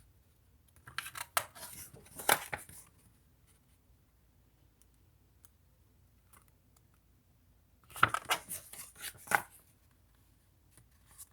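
Paper rustling and crackling as a picture book's pages are handled and turned, in two short bursts several seconds apart.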